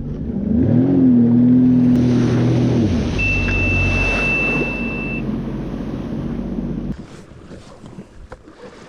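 Sea-Doo jet ski engine in limp-home mode revs up and holds a steady pitch, then drops back after about three seconds. A single long high warning beep sounds for about two seconds. The low rumble and water noise then fall away sharply near seven seconds as the engine is shut off.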